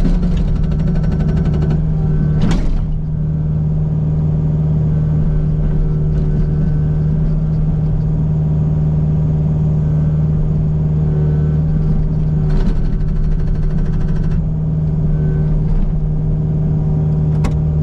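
Kubota U55 mini excavator's diesel engine running steadily under throttle, while the Agrotk 680 hydraulic hammer pounds rock in two rapid bursts of about two seconds each, one at the start and one about two-thirds through. A single sharp clank sounds between them, and another near the end.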